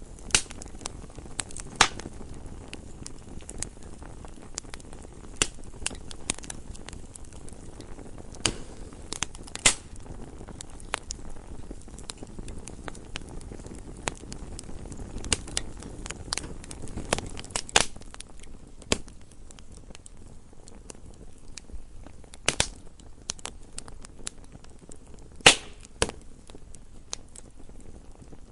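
Wood fire burning in a fireplace: a low steady rumble of flames with irregular crackles and sharp pops, a few much louder snaps scattered through.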